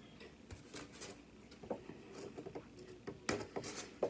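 Quiet chewing of a mouthful of sushi roll, with small wet mouth clicks. Near the end, a louder crackle and a sharp click as a clear plastic sushi container is handled.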